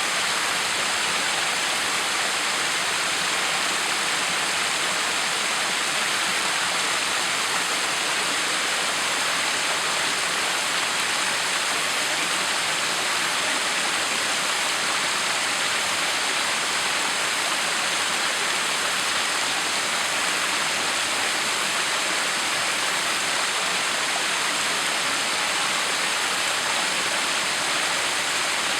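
Backyard waterfall: water falling and splashing in a steady, even rush.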